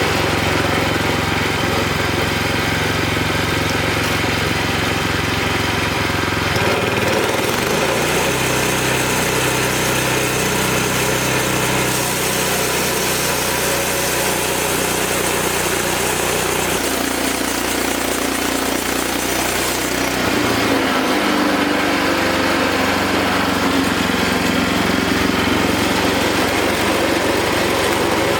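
Wood-Mizer LX25 band sawmill's small gas engine running steadily, its note shifting a few times, about 7, 17 and 21 seconds in.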